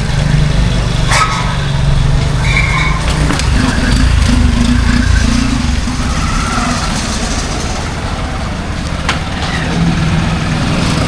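Yamaha FZS FI motorcycle's 149 cc single-cylinder engine running through its stock exhaust, its note swelling and easing a few times with the throttle.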